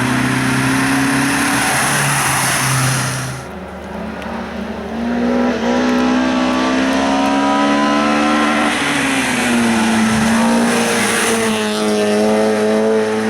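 Race car engines at full throttle on a hill climb. A loud pass cuts off about three and a half seconds in. Then an engine climbs in pitch through the gears, with a gear change near the middle and another about ten seconds in.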